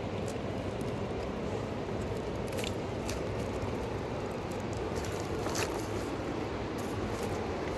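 Steady rushing of a fast-flowing river, with a few faint clicks and knocks scattered through it.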